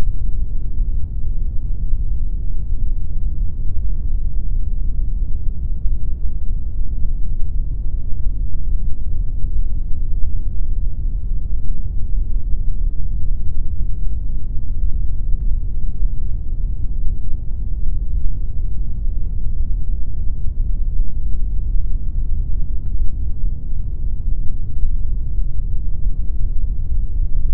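Continuous synthetic pink noise, a steady, unchanging hiss-like rush weighted heavily to the low end, so it sounds deep and rumbling with little treble.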